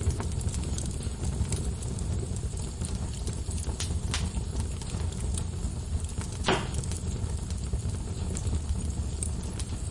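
Log fire burning in a fireplace, with a steady low rumble and scattered crackles and pops. The loudest pop comes about six and a half seconds in.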